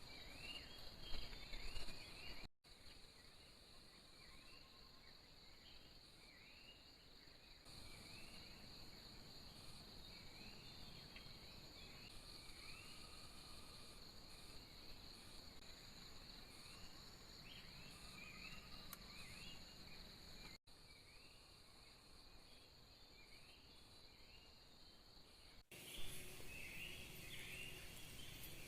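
Faint forest insect chorus: a steady high-pitched drone with a chirping call repeating about once a second above it. It breaks off abruptly twice and comes back louder near the end.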